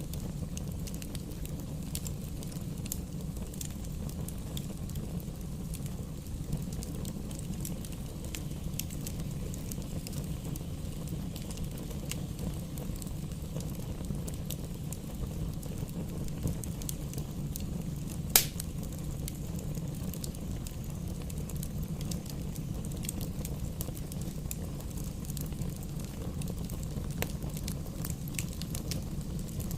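Wood fire crackling in a fireplace: a steady low sound of burning with scattered small crackles, and one sharp, louder pop from the logs a little after halfway.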